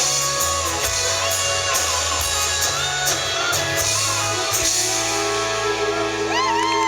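Live country band playing the instrumental close of a song: guitars and drums, with the drums stopping about four and a half seconds in and a final chord ringing on. Crowd whistles and cheers start near the end.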